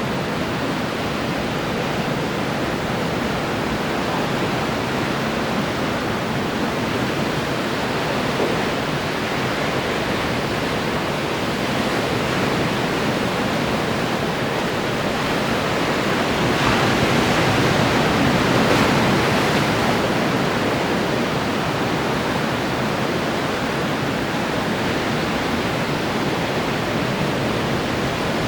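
Ocean waves breaking on the shore: a continuous wash of surf, swelling louder for a few seconds just past the middle.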